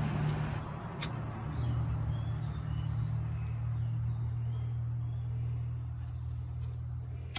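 Steady low engine hum, with two sharp clicks, one about a second in and one near the end.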